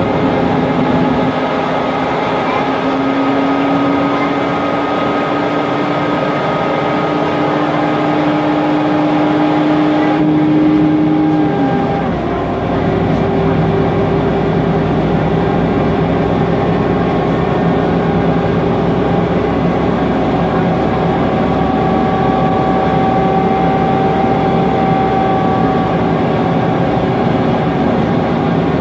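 Mercedes-Benz Conecto NGT city bus under way, its M936G natural-gas six-cylinder engine and Voith DIWA automatic gearbox running with a whine. The main tone climbs slowly for about twelve seconds, then drops as the gearbox shifts, and runs steady after that.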